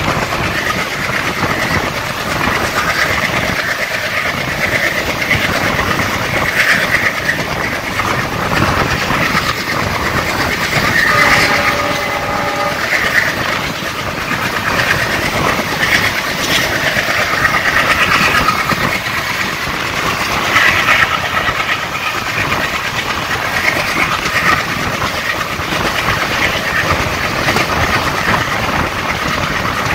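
Passenger train running at speed, heard from the open coach doorway: a steady rumble of wheels on the track with rail-joint clatter. A horn sounds briefly about eleven seconds in.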